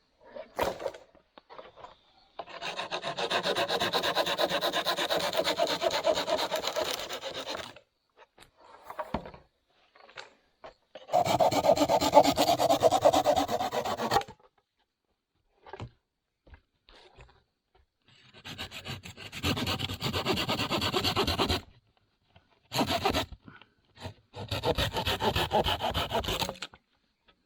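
Dry, dead bamboo being cut with a hand saw: several long runs of rapid rasping strokes, a few seconds each, with short pauses between them.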